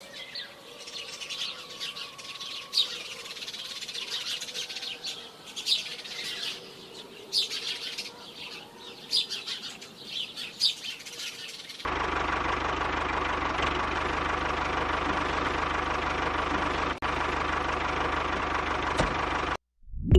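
Birds chirping for about twelve seconds, then a small motor starts running steadily with a fine even rhythm and cuts off suddenly near the end.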